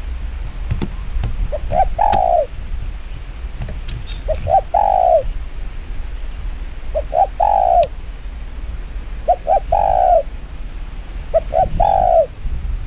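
Spotted dove cooing five times, about every two and a half seconds. Each phrase is two short notes and then a longer falling coo. This is the fast 'gù kích bổi' challenge call that keepers use to provoke and lure wild doves.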